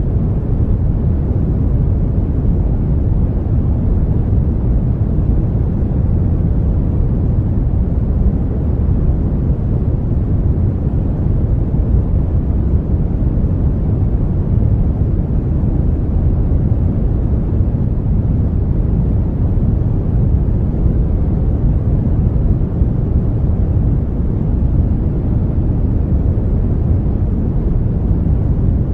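Brown noise: a steady, even hiss-like rumble weighted toward the low end, unchanging throughout.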